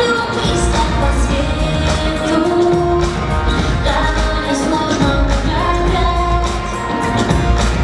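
Pop song with a woman singing over a steady beat and heavy bass.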